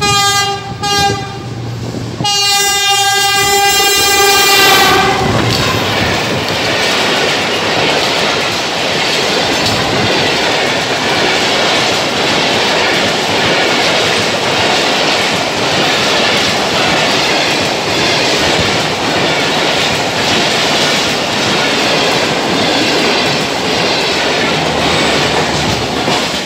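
Horn of a GE U40 diesel-electric locomotive: a short blast, then a long one of about three seconds. Then a passenger train's coaches pass close by at about 65–75 km/h, their wheels clattering steadily over the rail joints.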